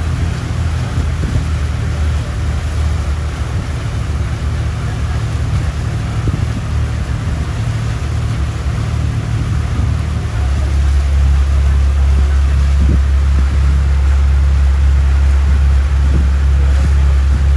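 A boat's engine running steadily, a low hum over wind and water noise; the engine grows louder about ten seconds in, as if throttled up, and then holds.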